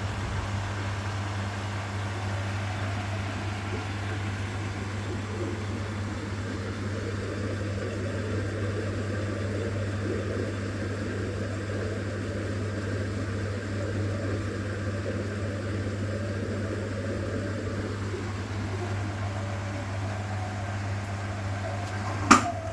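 1969 Zanker VA520 washing machine running, its Hanning gear motor giving a steady low hum over the churning of the drum. A single sharp click sounds near the end.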